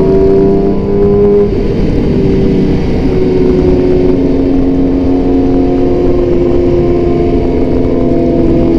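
Yamaha R6 sport bike with an Austin Racing aftermarket exhaust running at highway speed. The engine note climbs, dips briefly about a second and a half in, then holds steady and slowly rises.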